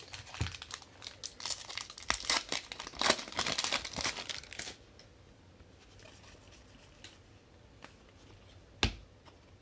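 A trading-card pack's foil wrapper being torn open and crinkled for about four and a half seconds, then a single sharp click near the end.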